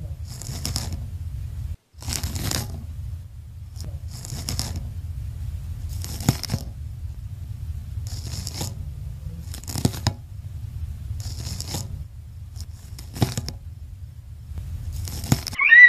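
Caterpillar chewing a leaf: crisp tearing, crunching bites come in short bursts about every one and a half to two seconds over a steady low hum. A brief high call cuts in at the very end.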